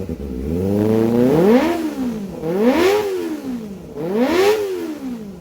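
Kawasaki ZX25R inline-four engine revved through an aftermarket carbon silencer: three throttle blips, each rising sharply in pitch and falling back.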